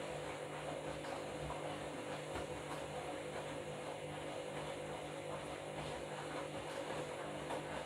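Washing machine running with a steady motor hum at an even pitch.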